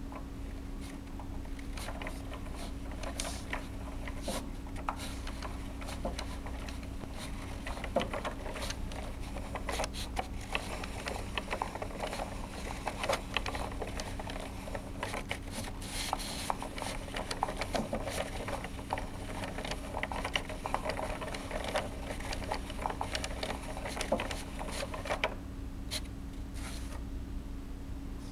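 Small tractor automaton mechanism running, giving a continuous light rattle of clicks and ticks that stops about 25 seconds in. A steady low hum lies underneath.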